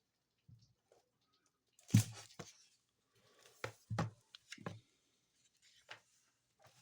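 Paper rustling with a few soft knocks as a picture book's pages are handled and turned.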